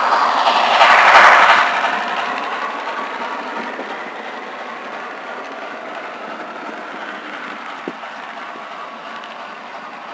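HO scale model train running past on the layout track, its wheel and running noise loudest about a second in, then fading steadily as it moves away. A single small click near the end.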